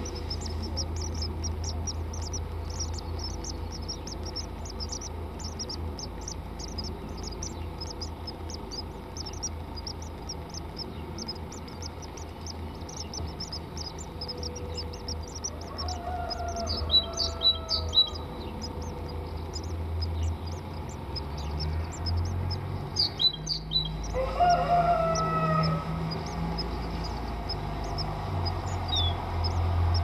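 Birds chirping: rapid, very short high-pitched chirps, thick through the first half and sparse later, with two louder, lower calls that fall in pitch about halfway through and again some eight seconds later, over a steady low hum.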